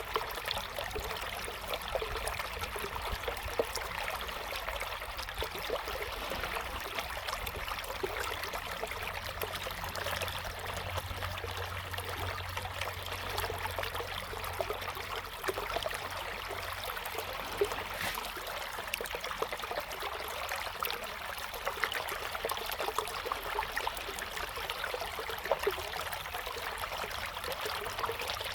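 A river flowing steadily: continuous rushing water with many small splashes and trickles over a low rumble.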